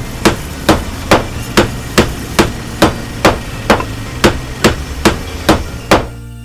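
Repeated hammer strikes at an even pace, a little over two a second, stopping near the end.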